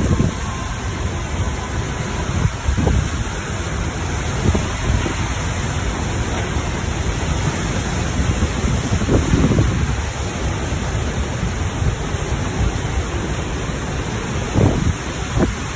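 Storm wind and heavy rain: a steady rush of noise, with gusts of wind hitting the microphone now and then.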